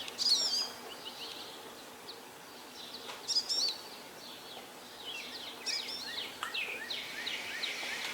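Small birds chirping in short groups of quick, high up-and-down notes, over a faint steady background hiss.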